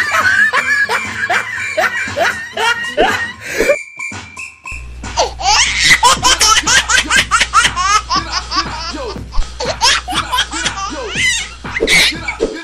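A baby laughing in quick, repeated peals, with a short break about four seconds in and faster, denser laughter after it.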